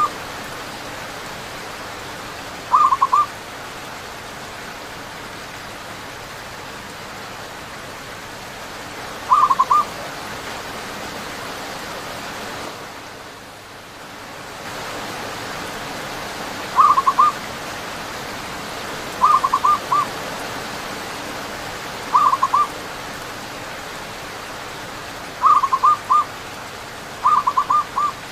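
Zebra doves (perkutut) cooing in short bursts of three or four quick notes, about seven times at uneven intervals, over a steady hiss of rain. The rain dips briefly about halfway through.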